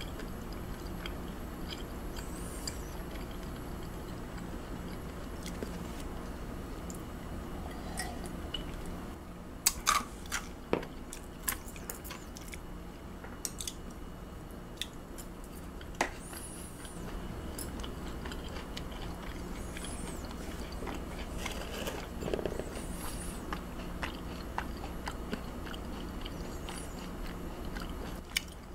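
Close-miked chewing and biting of raw hanwoo beef yukhoe. There are a few sharp clicks of metal chopsticks against a dish, a cluster about ten seconds in and one more some six seconds later, over a steady low hum.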